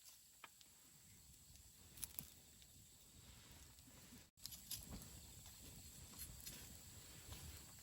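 Wood campfire burning quietly: faint crackling with scattered sharp pops over a low rumble, a few louder pops around a quarter and two-thirds of the way in. The sound drops out for an instant just after halfway.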